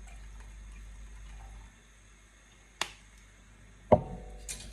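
Kitchen clatter: a sharp click, then a loud knock that rings briefly, from hard kitchenware being struck or set down, and a smaller click near the end. A low background hum drops out before the knocks.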